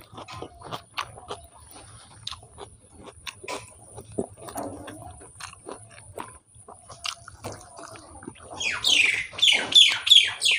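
Close-miked eating sounds: wet chewing, lip smacks and mouth clicks as rice and chicken are eaten by hand. A louder run of scratchy, sweeping sounds starts about two seconds before the end.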